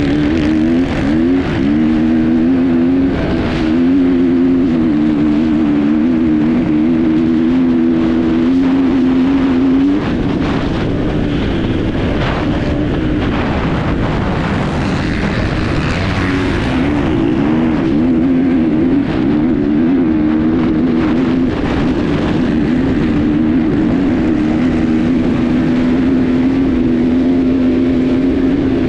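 Enduro motorcycle engine running at high revs, its pitch wavering up and down with the throttle, heard from a camera on the moving bike. For several seconds in the middle the engine note falls back under rushing noise and scattered knocks, then picks up again and holds steady.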